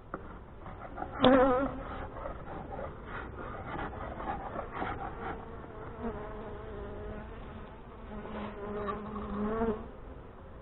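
Honey bees buzzing around an open hive. Single bees fly close past with a louder, wavering buzz about a second in, and again for several seconds near the end.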